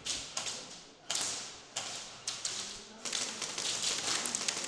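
Airsoft guns firing. Sharp cracks come about every half second, each echoing, then a quick run of rapid shots from about three seconds in.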